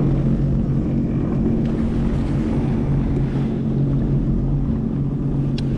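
Sea-Doo FishPro Sport 170 jet ski's engine idling steadily, with wind buffeting the microphone and a brief click near the end.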